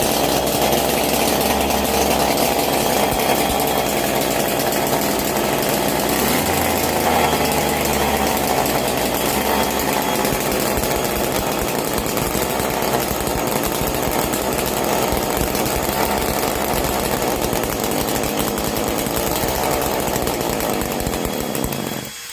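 Home-built twin-cylinder two-stroke engine made from Motobécane AV7 moped engine parts, running steadily at a fast, buzzing speed. Its sound drops away near the end.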